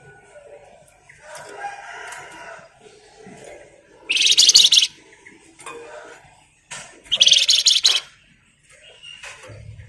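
A Flamboyan songbird singing: softer varied notes, then two loud, fast rattling trills, each just under a second long, about four seconds in and again about seven seconds in. This is the rapid 'ngebren' rattle.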